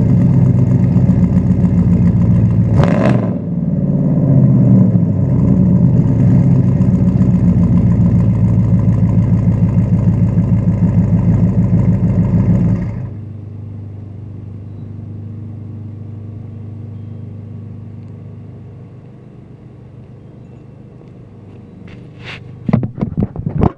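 1998 Dodge Ram 1500's 360 (5.9 L) V8 running through a true dual exhaust with shorty headers, no cats and glasspacks, loud, with the revs rising and falling in the first several seconds and one sharp crack about three seconds in. About halfway through the sound drops suddenly to a much quieter, steady idle, and a few sharp knocks come near the end.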